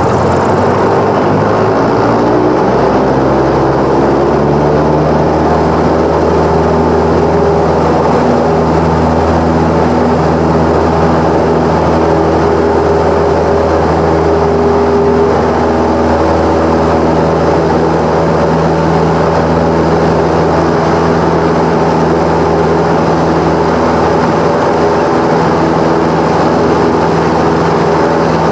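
Cessna 172's piston engine and propeller rising in pitch over the first few seconds as power comes up, then running steadily at high power.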